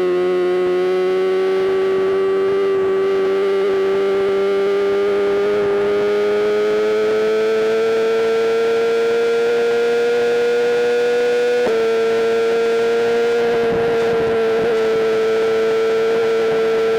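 BMW M1000RR's inline-four engine held at high revs with a sustained, distorted wail, its pitch climbing slowly. About twelve seconds in, the pitch steps down slightly, then holds steady.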